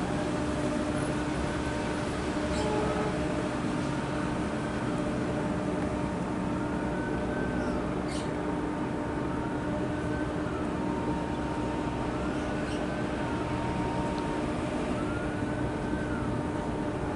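Railway locomotive running steadily: a continuous rumble with a held engine hum. Over it, a faint tone rises and falls about every two to three seconds.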